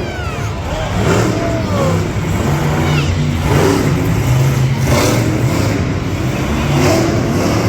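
Monster truck engines revving, loud and continuous, rising and falling in strength.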